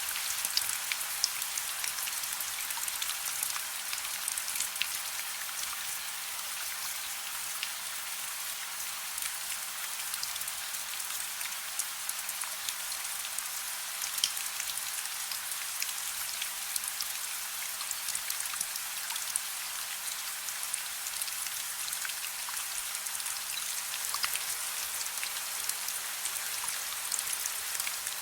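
Steady soft rain: an even hiss with many scattered sharp ticks of single drops.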